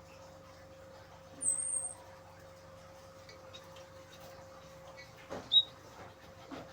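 Small caged munias giving a few high, thin calls: a squeaky call about a second and a half in and a short, sharp chirp near the end. Under them run soft rustling clicks and a steady faint hum.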